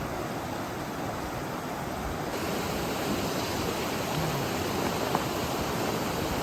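Steady rushing of flowing river water, growing a little louder after about two seconds, with a single small click near the end.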